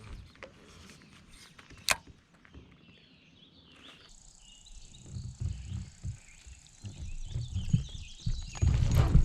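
Kayak being paddled and handled, with low bumps and knocks of the paddle and hull, a sharp click about two seconds in, and the loudest thump near the end. A high, steady buzzing call runs from about four seconds in until just before the end.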